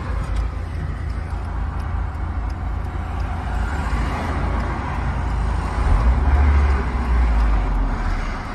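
2002 Hyundai Coupé's 2.0-litre four-cylinder engine idling at about 1,000 rpm, heard from inside the cabin, running again after two years laid up now that a replacement body control module has cleared its immobiliser fault. The low rumble swells louder about six seconds in.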